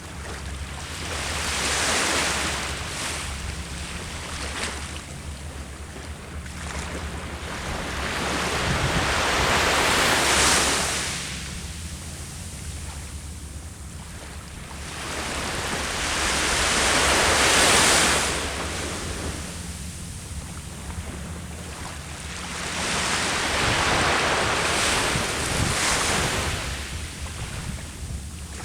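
Sea waves breaking and washing up the shore, four swells of surf rising and falling about every seven to eight seconds over a steady low rumble.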